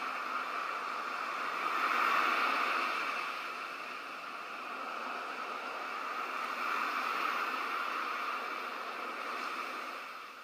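Ocean surf washing onto a shore: a steady hiss of waves that swells twice and falls back, fading near the end.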